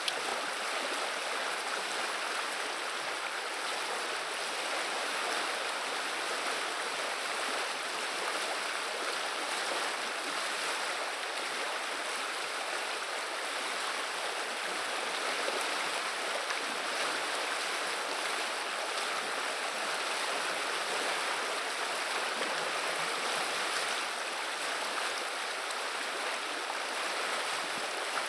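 Viliya river water running: a steady, even rush and babble of flowing water.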